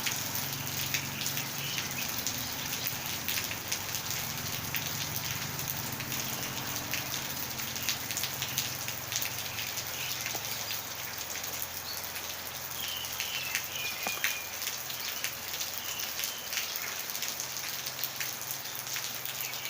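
Heavy rain falling steadily, with many separate drop hits heard through the steady rush.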